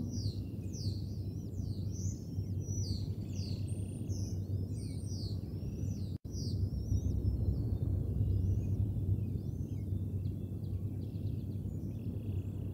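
Birds chirping: a fast run of high, down-sweeping chirps in the first half that thins to fainter, scattered ones, over a steady low rumble. The sound drops out for an instant about six seconds in.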